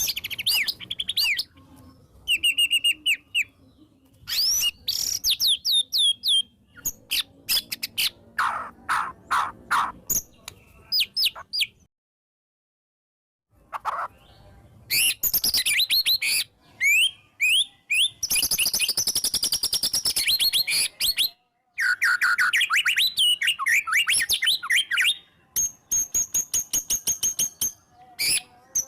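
White-rumped shama singing a loud, varied song of rapid whistles, sweeping notes, chirps and fast trills, broken by a short stretch of complete silence a little before the middle.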